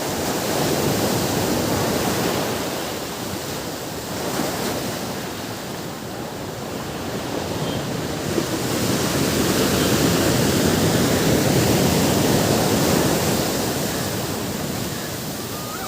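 Ocean surf breaking on a beach, the wash of the waves swelling and ebbing, with the biggest swell about nine to fourteen seconds in.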